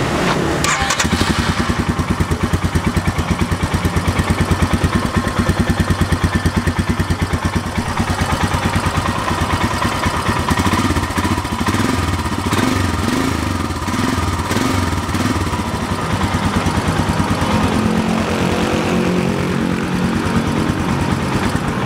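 Royal Enfield Himalayan's 411 cc single-cylinder, fuel-injected engine idling steadily through its stock exhaust, heard close to the silencer as an even stream of exhaust pulses.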